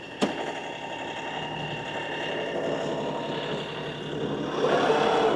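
LS XR315 compact tractor's engine running steadily, with one sharp knock just after the start; the engine gets louder about four and a half seconds in.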